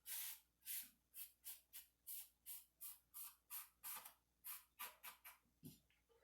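Rapid rubbing strokes on the wood of a cedar chest as stain is worked in, about three strokes a second, ending with a small low knock near the end.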